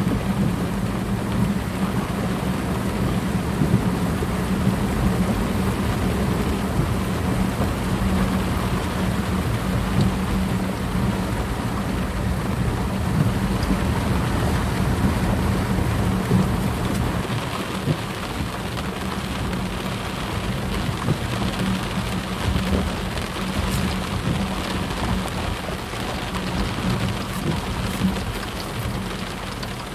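Heavy rain falling steadily, with a steady low hum beneath it that eases a little past the middle.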